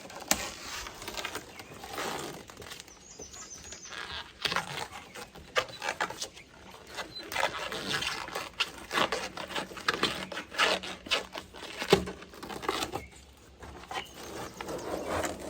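Plasti Dip rubber coating being peeled by hand off a truck's painted body panel, making irregular sticky ripping sounds, with one sharper snap about three-quarters of the way through.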